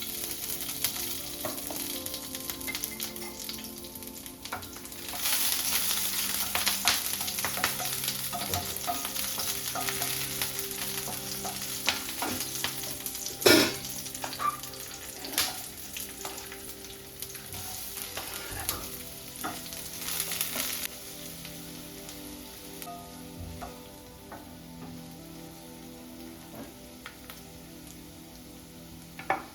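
Food sizzling in a hot pan while being stirred, with light scrapes and clicks of a spoon against the pan. The sizzle grows louder about 5 seconds in and eases off again past 20 seconds, with one sharp knock a little after the middle.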